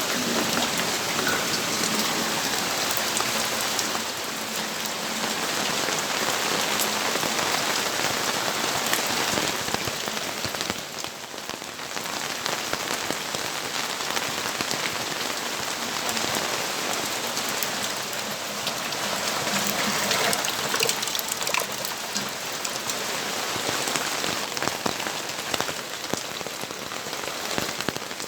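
Steady rainfall, a dense even hiss with many individual drops clicking close by. The rain eases briefly about eleven seconds in.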